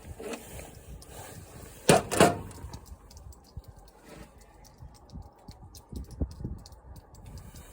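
Two sharp knocks in quick succession about two seconds in, from work on the mower's parts, then a few faint clicks.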